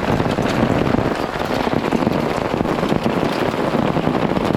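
Heavy rain mixed with pea-size hail pelting the awning and tarps: a dense, steady patter of countless small hits.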